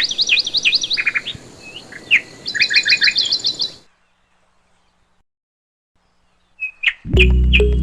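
Birds chirping and singing in quick, high, repeated notes and trills, cutting off suddenly about four seconds in. After a few seconds of silence, music starts near the end.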